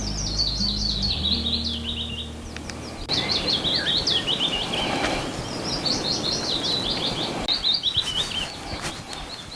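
A songbird singing: phrases of quick, clear notes that step down in pitch, repeated several times with short gaps, over an outdoor background hiss.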